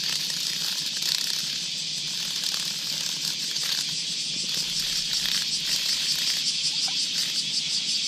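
Cicadas singing: a steady, high-pitched buzz that takes on a fast, even pulsing about halfway through.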